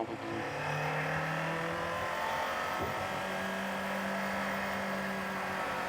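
Kawasaki Z500 parallel-twin motorcycle engine running steadily while riding, its pitch rising slightly about three seconds in.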